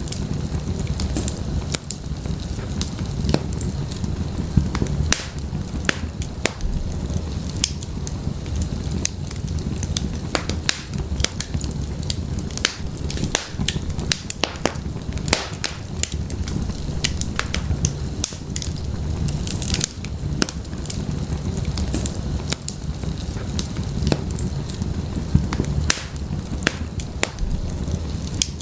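Wood fire burning in a fireplace: irregular sharp crackles and pops from the burning firewood over a steady low rumble of the flames.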